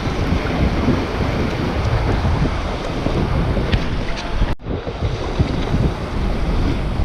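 Wind buffeting the microphone over open lake water, with water splashing and lapping around a kayak. The sound cuts out briefly a little past halfway.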